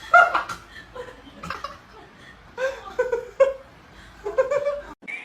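A person laughing in several short bursts, which cut off abruptly near the end.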